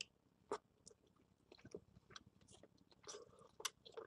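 Faint close-up chewing: scattered wet mouth clicks and smacks, a few a second, of someone eating a mouthful of food.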